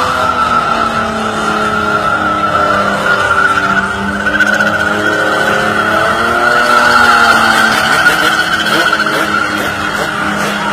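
Chevrolet Opala's inline six-cylinder engine held at high revs for several seconds, with a loud steady high squeal over it; both drop away at the end.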